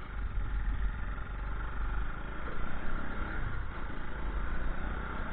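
Vehicle engine running steadily under a low rumble, with no breaks or sudden events.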